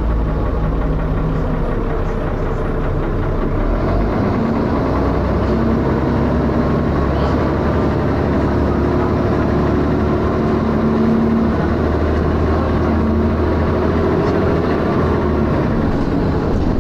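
Dennis Arrow bus's diesel engine running, heard from inside the bus, with a loud thrashing rumble. Its note changes about four seconds in.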